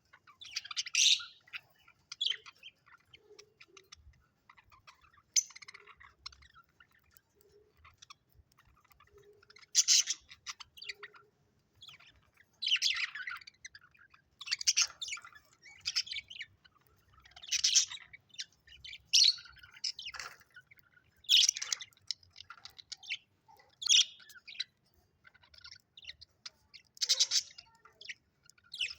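Budgerigars chirping: short, high calls every second or two, with softer twittering between them.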